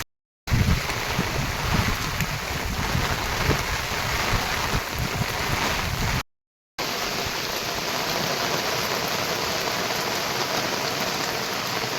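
Heavy monsoon rain falling, a steady hiss, with more low rumble in the first half. It drops to silence twice for about half a second, at the start and about halfway.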